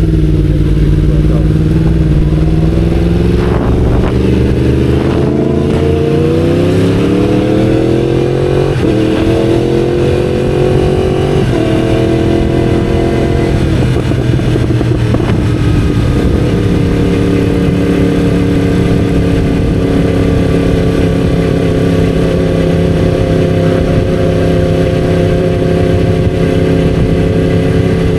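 Inline-four sport motorcycle accelerating hard through the gears. Its engine note climbs, then drops with upshifts about nine, eleven and a half, and fourteen seconds in, and settles to a steady note at speed from about sixteen seconds on.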